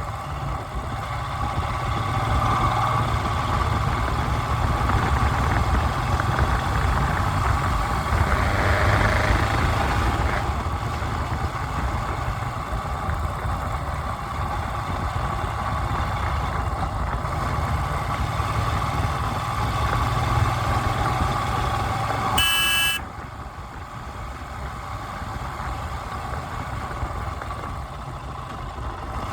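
A vehicle engine running steadily with road noise. About three-quarters of the way through there is a brief high-pitched tone, and the sound then becomes quieter.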